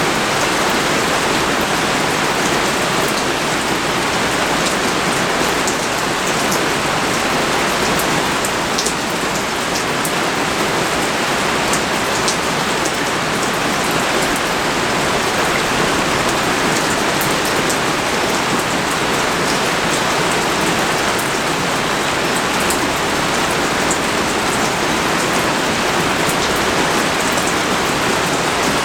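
Steady pouring rain, with many single drops ticking sharply on nearby surfaces through the even wash of the downpour.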